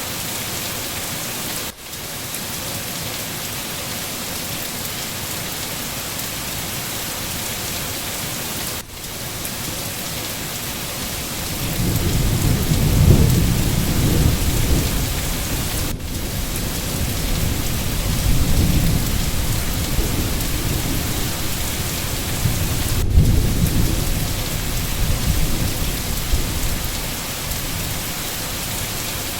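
Steady, heavy rain hissing, with a long low rumble of thunder rolling in about a third of the way through, swelling several times and fading near the end. Brief dips in the hiss come about every seven seconds.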